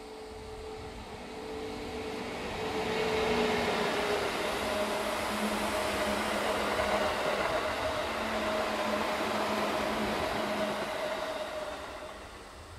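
Electric train passing: the noise of its wheels on the rails swells over a few seconds, holds steady, then fades near the end, with a steady humming tone running through it.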